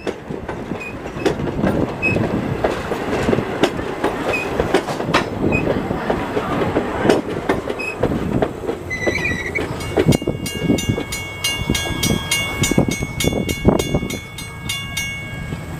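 Railroad cars rolling past, their wheels knocking and clicking over rail joints. From about ten seconds in, several high, steady tones ring out over the clatter.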